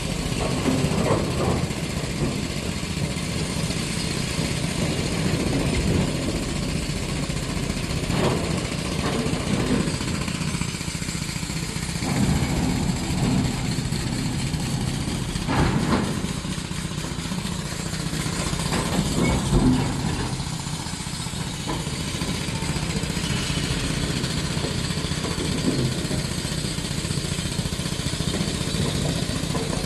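Diesel engine of heavy earthmoving machinery running steadily, with short knocks every few seconds.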